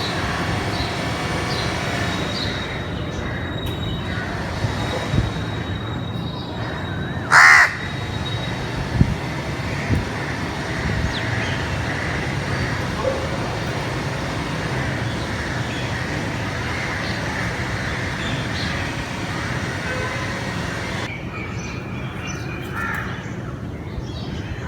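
A crow caws once loudly about seven seconds in, with a couple of shorter, fainter sounds soon after, over a steady background noise.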